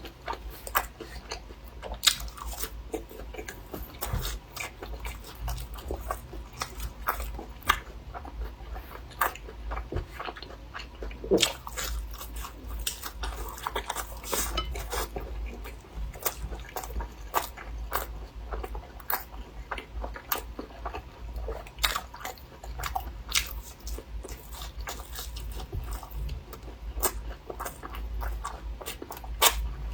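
Close-up eating of crisp deep-fried eggplant boxes (battered, meat-stuffed eggplant), with irregular crunching bites and chewing over a low steady hum.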